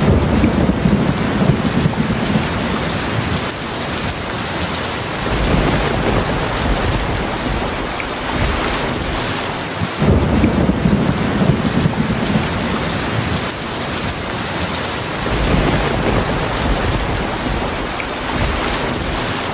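Heavy rain falling steadily, with low thunder rumbling in and fading about four times, roughly every five seconds.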